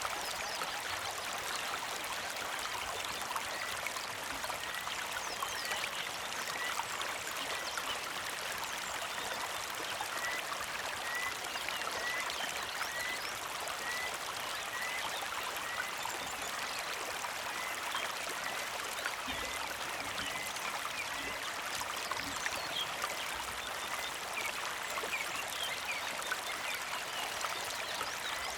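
Small mountain creek flowing and trickling over stones, steady throughout. A bird gives a short chirp over and over, about one every two-thirds of a second, for most of the stretch.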